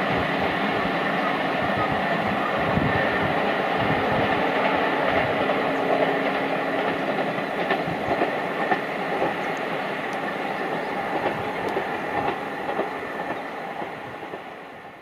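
Passenger express train running away along the track, its coach wheels clattering on the rails. The sound slowly fades over the last few seconds as the train recedes.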